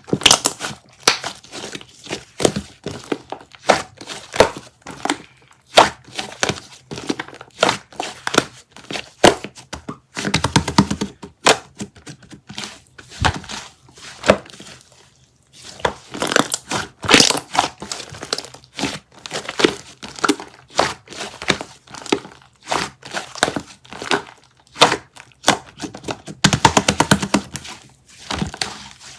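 Slime being squished and worked by hand: an irregular run of sticky clicks, pops and crackles, packing into fast crackling runs about ten seconds in and again near the end.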